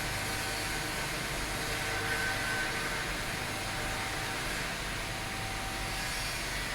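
CNC milling machine running while machining a flange: a steady, noisy whir with a few faint steady tones.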